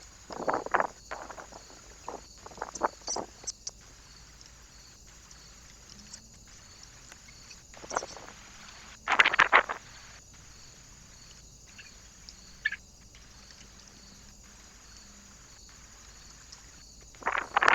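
Several short bursts of rustling and scuffling at a bird feeder, from animals moving about on it, over the steady hiss of a trail camera's microphone.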